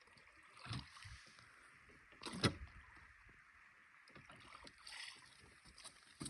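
Small dinghy moving on the water with a faint wash of water. A few hollow knocks against the boat, the loudest about two and a half seconds in.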